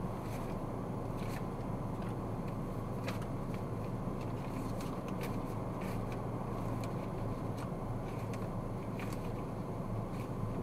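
Steady road and engine noise of a car being driven, heard from inside the cabin, with scattered faint light ticks.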